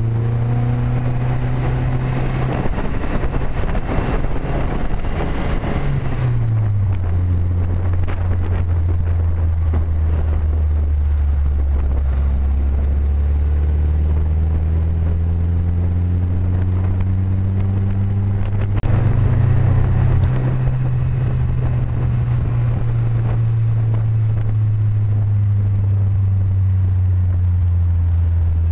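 Classic Triumph TR sports car engine running steadily on the road, with road noise underneath. The engine note drops sharply about a quarter of the way in, rises again about two-thirds through, then slowly sinks.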